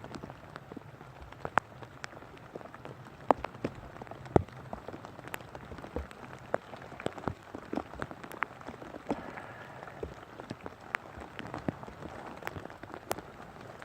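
Rain falling, with many irregular sharp ticks of individual drops striking close by over a steady hiss.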